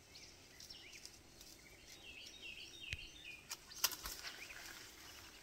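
A small bird singing a quick run of short chirping notes about two seconds in, over a faint outdoor hush. A few sharp clicks cut in, the loudest near the end of the song.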